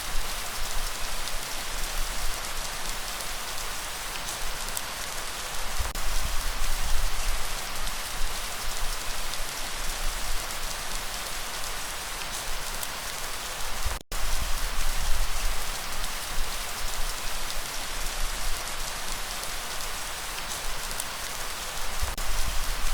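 Steady, dense rainfall: an even hiss of drops with a low rumble underneath. The sound cuts out for an instant about fourteen seconds in.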